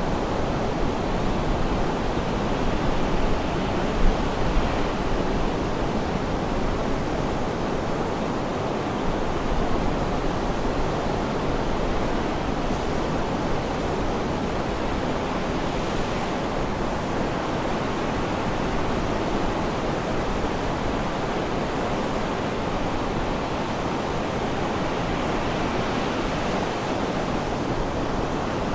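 Sea waves washing onto a shore in a steady, continuous rush, with gentle swells in level.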